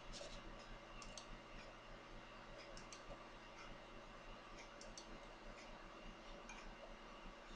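Faint scattered clicks, a few small ones together here and there, over a steady low electrical hum and hiss.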